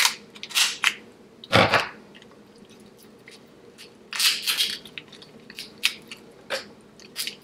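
A person eating sauce-covered seafood boil close to the microphone: wet chewing and biting in short, irregular bursts with quiet gaps. The loudest bite comes about one and a half seconds in.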